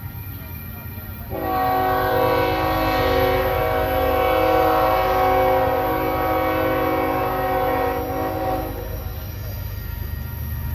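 Freight locomotive's five-chime K5HL air horn sounding one long blast of about seven seconds, starting just over a second in, its higher notes dropping out shortly before the lower ones stop. A low rumble from the train runs underneath.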